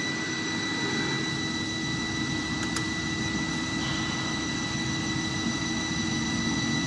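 FEELER FTC-640XL CNC lathe running steadily: a constant high whine over an even mechanical hum, with a faint tick about three seconds in.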